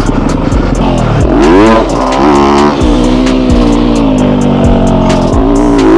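Yamaha YZ250F's 250 cc four-stroke single-cylinder engine revving hard in second gear. Its pitch climbs steeply about a second in and is held on the throttle, drops briefly near the end and rises again.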